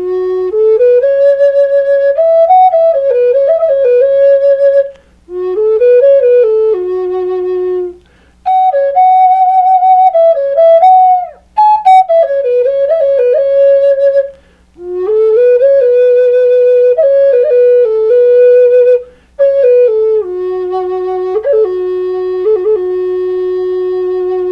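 Native American flute in F-sharp minor, a 1-inch-bore Madrone burl hardwood flute, playing a slow melody in about six breath phrases with short pauses between them. Held notes are ornamented with quick note flicks and some waver, and the last phrase ends on a long held low note.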